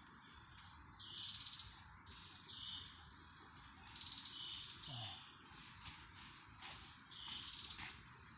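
Faint bird calls in the forest: a string of short, high chirping phrases, each dropping from a higher note to a lower one, repeated about once a second over a soft background hiss.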